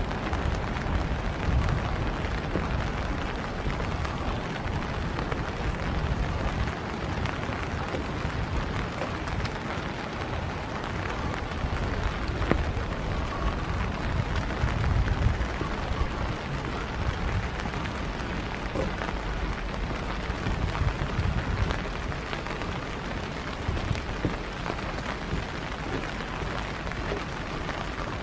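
Steady winter rain falling, with an uneven low rumble underneath.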